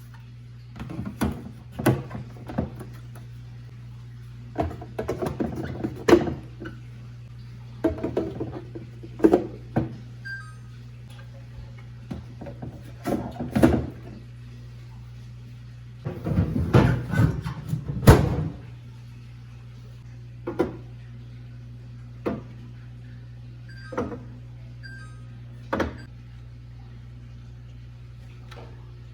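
Kitchen containers and utensils being handled: a string of separate knocks and short clattering runs, with a longer busy clatter about two-thirds of the way through, over a steady low hum.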